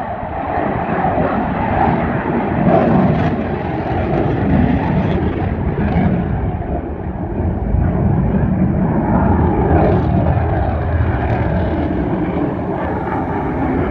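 Jet aircraft flying a display, its engine noise a loud, continuous rush that swells and eases a little.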